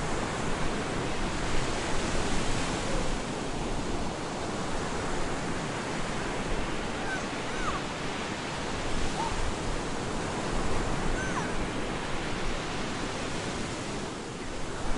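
Storm surf on a beach: waves breaking and washing in a continuous rush that swells and eases. A few faint, brief rising-and-falling tones show up about halfway through.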